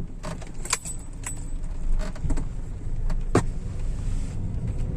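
Car driving along a street: a steady low rumble with a few irregular sharp clicks and knocks, like small rattles inside the car.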